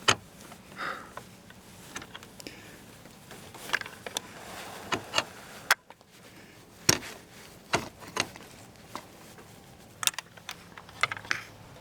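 Irregular clicks and knocks, about a dozen spread over the stretch, from a car lockout kit (wedge and long-reach rod) being worked at the truck's door to get it unlocked.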